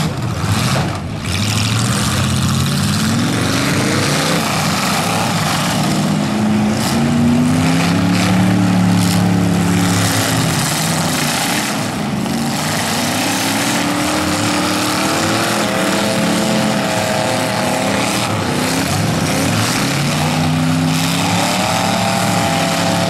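Full-size V8 demolition derby cars revving and running on a dirt track, several engines at once, their pitch rising and falling again and again as the drivers accelerate and back off.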